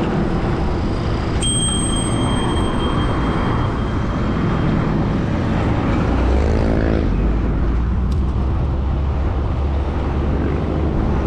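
Wind and road traffic noise while riding a bicycle, with a single bicycle bell ring about a second and a half in that fades over a few seconds. A heavier vehicle rumble comes in from about six seconds in.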